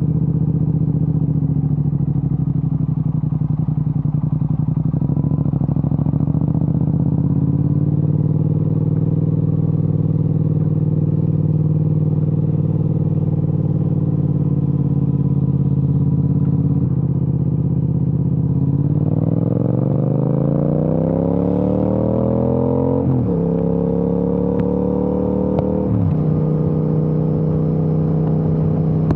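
Triumph Speed Twin 1200 parallel-twin engine, running through an aftermarket Vance & Hines exhaust, held at steady cruising revs. Near the middle the throttle opens for a pass. The revs climb hard, then drop with an upshift, and drop again with a second shift.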